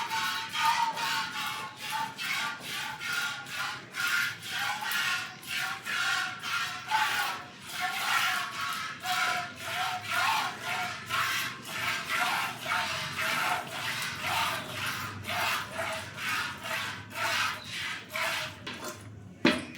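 Hand-milking a Murrah buffalo with the fist method: milk squirting into a bucket in rhythmic jets, about two a second.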